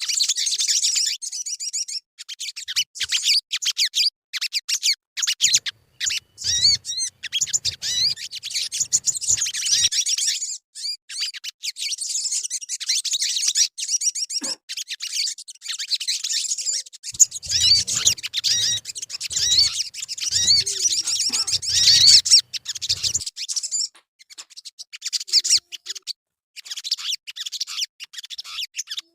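Sogon bird song: rapid, high-pitched twittering and chirping in dense runs, with short breaks about 24 seconds in.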